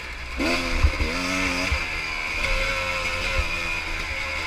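Pit bike engine revving up under acceleration, its pitch climbing twice in quick succession and then holding fairly steady, with wind rush over it.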